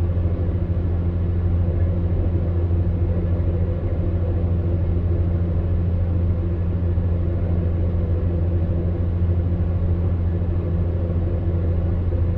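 Electric fan heater running steadily: a deep, even hum with a soft rush of blown air over it, unchanging throughout.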